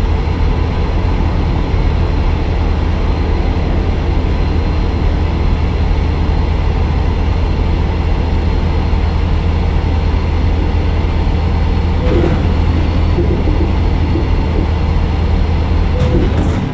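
Steady low rumble of a heavy vehicle under way: engine and road noise at an even level throughout.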